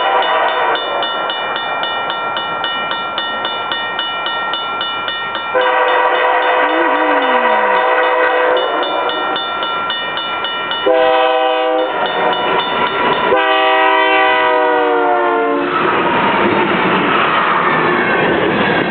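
A BNSF diesel freight locomotive's air horn sounds a series of long and short blasts, warning for the grade crossing, as the train approaches at speed; the last blast drops in pitch as the locomotive goes by. The horn then gives way to the rushing, rumbling noise of covered hopper cars rolling past close by.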